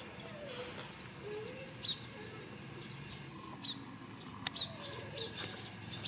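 Small birds chirping: short high chirps, each dropping in pitch, every second or two over a steady low background of outdoor noise. A single sharp click about three quarters of the way through.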